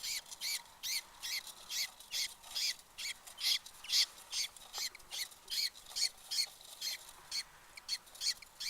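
Newly hatched budgerigar chicks cheeping: a steady run of short, raspy calls, about three a second. These are the begging calls of chicks only a few days old.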